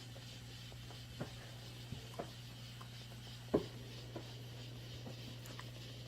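Massage machine's motor humming steadily and low, with a few soft taps and scratchy rustles, the loudest about three and a half seconds in.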